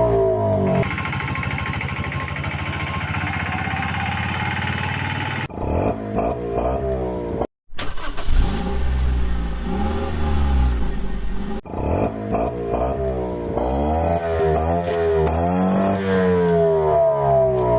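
Vehicle engine sounds revving up and down in pitch, in several segments that cut off abruptly and switch, with a brief dropout to silence near the middle.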